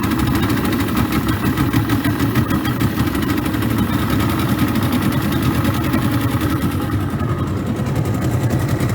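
Boat engine running steadily at an unchanging pitch.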